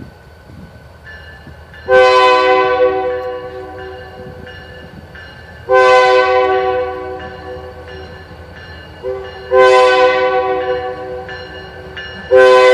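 Diesel locomotive air horn with several notes sounding together, blowing two long blasts, a short one and a long one, with another long blast starting near the end: the long-long-short-long grade-crossing signal. Each long blast sounds loud at first, then fades as it is held.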